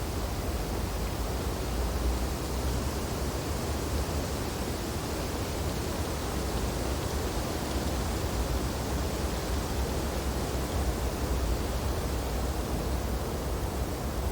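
Wind blowing steadily through snowy tree branches: an even rushing noise over a deep low rumble.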